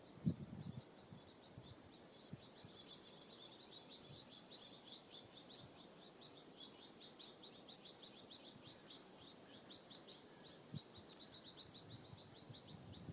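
Faint songbird calling a long, rapid series of short high notes. There is a dull thump just after the start.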